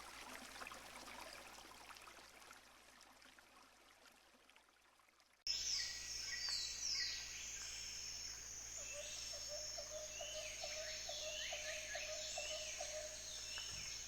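A faint stream of running water fades away to near silence. About five seconds in, birdsong starts abruptly: many quick, high, falling chirps, joined later by a lower call that repeats in short pulses.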